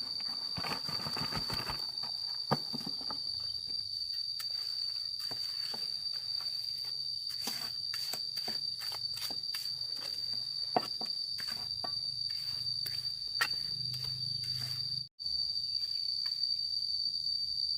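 Steady high-pitched insect drone, like crickets, with scattered short clicks and steps over a faint low hum.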